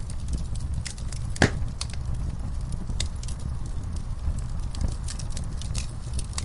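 Wood fire burning in a fireplace: a steady low rumble of flames with frequent sharp crackles and pops, the loudest single pop about a second and a half in.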